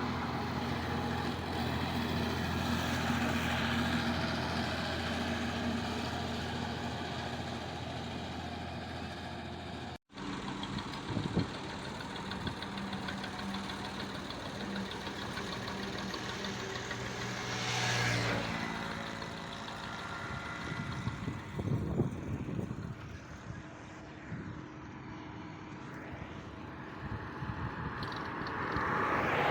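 Truck engines running on a road with a steady low hum. The sound cuts off abruptly about a third of the way in and resumes, and vehicles pass by, swelling and fading, about two-thirds of the way through and again near the end.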